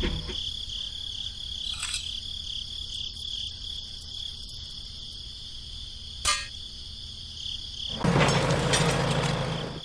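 Insects, crickets by their sound, chirring steadily in one high, unbroken tone, which stops a little before the end, where a louder rushing noise takes over.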